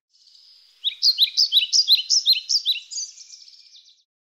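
A songbird singing: a thin opening note, then a run of quick down-slurred chirps, about four a second, ending in a fast trill that fades out.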